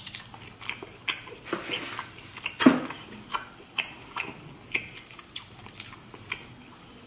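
A person chewing lobster claw meat with wet lip-smacking, about two smacks a second, the loudest a little under three seconds in.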